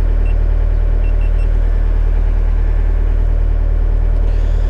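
Excavator's diesel engine running steadily, a deep unbroken drone heard from inside the cab. A few faint short high beeps sound around a second in.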